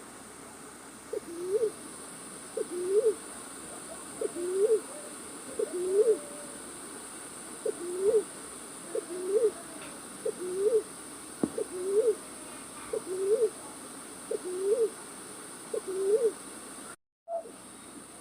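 Recorded night-bird call played as a trapping lure: a short, low, hooting call that dips and rises, repeated about every second and a half. The sound cuts out briefly near the end.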